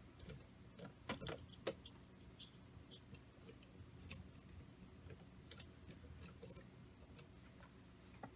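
Small metal parts and hand tools clicking and clinking as they are handled: a scatter of light, irregular ticks, the sharpest a little after a second in.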